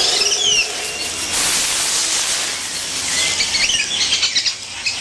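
Amazon rainforest ambience: a steady high hiss with short high chirping calls over it, a couple of falling chirps near the start and a quick cluster of chirps about three to four seconds in.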